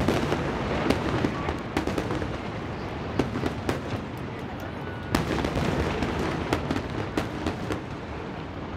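Aerial firework shells bursting in quick succession: many irregular sharp bangs over a continuous rumble and crackle, with a heavier bang about five seconds in.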